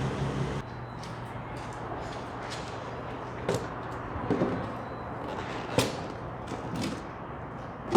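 A few short knocks and clatters of buckets and wash gear being handled and set down, over a steady low hum that thins out about half a second in.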